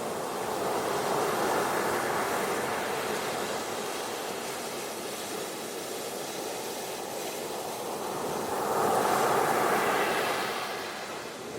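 Ocean surf washing onto a beach, the noise of the waves swelling twice, about a second in and again near the end.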